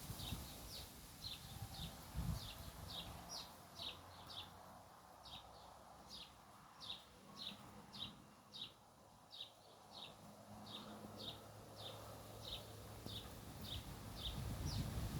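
A bird repeating a short, high chirp over and over, about two a second, each note sliding down in pitch.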